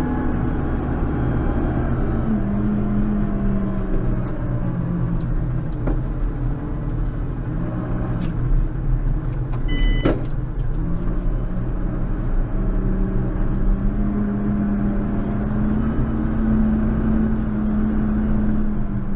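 JCB Fastrac 4220 tractor's diesel engine running steadily while snow plowing, its pitch dipping and rising a little as engine speed changes. A short electronic beep sounds about halfway through.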